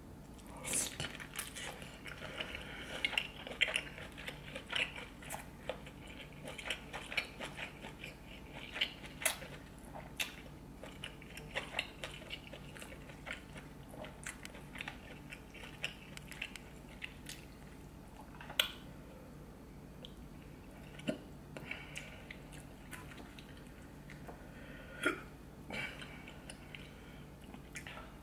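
Close-miked wet chewing and mouth sounds of someone eating a buttery seafood boil, with irregular sharp smacks and clicks. They come thick in the first dozen seconds and thin out after that.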